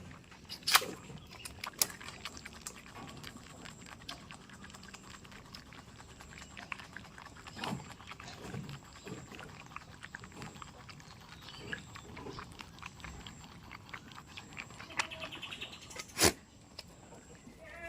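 Goats moving about, with scattered sharp knocks and clicks and a few short, low calls.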